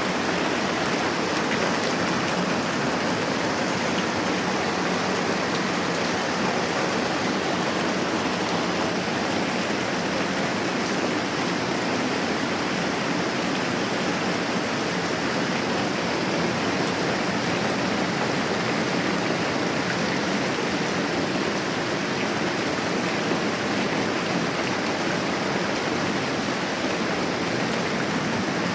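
Moderate rain falling steadily, an even hiss that does not change.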